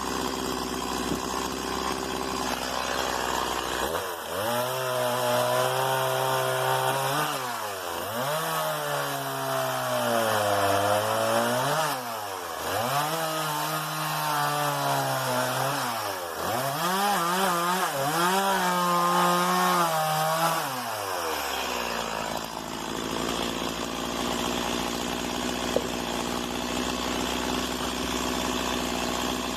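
STIHL MS 170 two-stroke chainsaw idling, then run at full throttle for about eighteen seconds while cutting wood, its pitch sagging and recovering about four times as the chain bites. It then drops back to idle.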